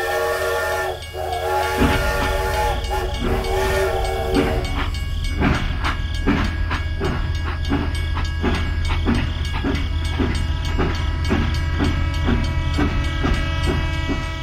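Train whistle sounding three blasts over a low rumble. The train then runs on with an even clickety-clack of wheels over rail joints, about two clicks a second. The sound cuts off suddenly at the end.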